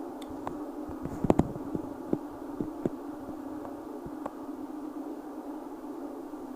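Steady hum of a moving train heard from inside the carriage, with scattered clicks and a short cluster of louder knocks about a second in.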